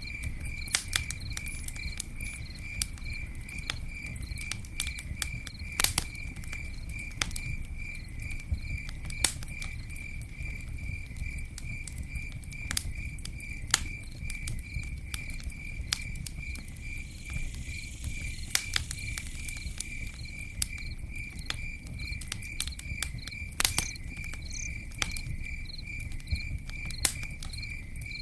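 Campfire crackling, with scattered sharp pops over a low rumble, while an insect chirps in a steady, rapid, evenly spaced pulse.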